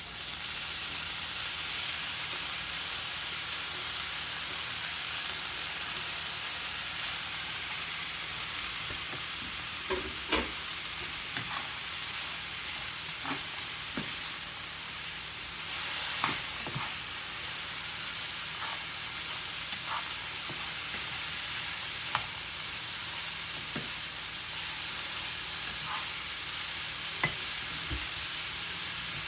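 Chopped cauliflower sizzling steadily in a frying pan, with a spatula knocking and scraping against the pan every second or two as it is stirred.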